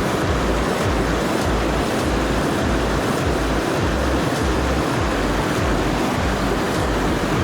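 Steady rushing of river rapids, with low buffeting rumble of wind on the microphone.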